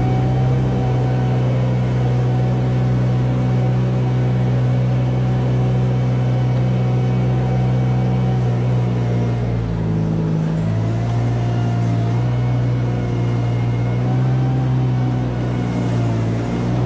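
A motor or engine running steadily with a low, even hum, its pitch dipping briefly about ten seconds in.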